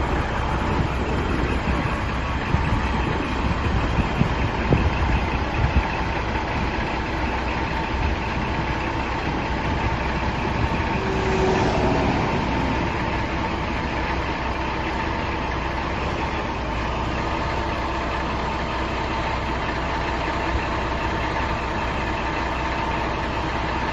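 Scania R480 truck's diesel engine idling steadily, with a thin steady whine over it and a few knocks in the first several seconds.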